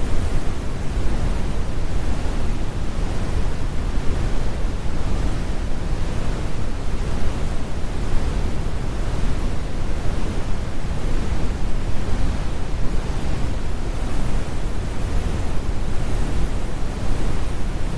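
Brown noise: a steady, deep rumbling hiss, strongest in the bass and with the highs rolled off, even and unchanging.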